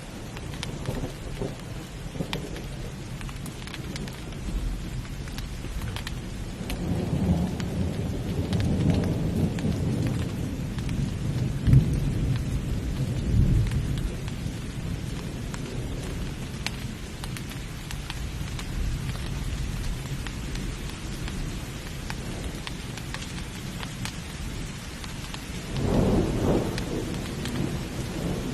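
Heavy rain falling steadily in a thunderstorm, with thunder rumbling low, swelling for several seconds in the middle and once more near the end.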